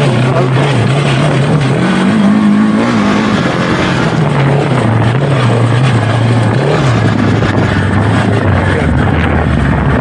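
KTM 690 Enduro R's big single-cylinder engine running as the bike rides along, revving up briefly about two seconds in and dropping back, over a steady rushing noise.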